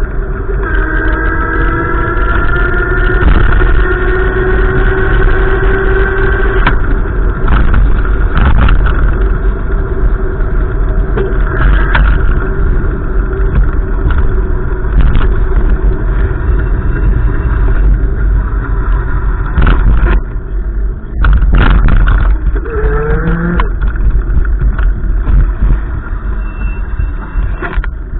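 Gusty wind buffeting the microphone as a loud, constant rumble, with a motor vehicle's engine climbing slowly in pitch over the first several seconds.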